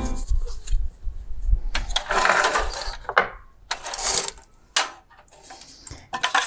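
Irregular handling sounds of computer parts on a work surface: short scrapes, rustles and a few sharp knocks.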